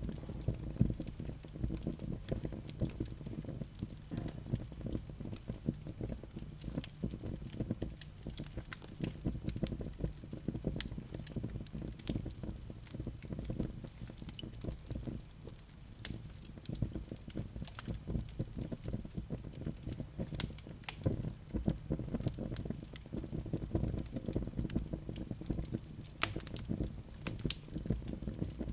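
Burning wood in a fireplace crackling, with frequent irregular pops and snaps over a steady low rumble of the flames.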